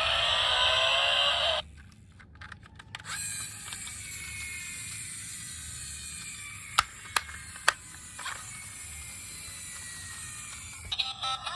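Small mechanism ratcheting and clicking, with three sharp clicks about seven seconds in. Before that, a loud motor-like whine rises in pitch and cuts off suddenly.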